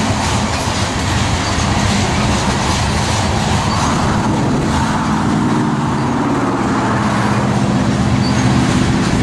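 Loaded coal hopper cars of a freight train rolling past steadily, steel wheels rumbling on the rails. A steady low hum joins about halfway through.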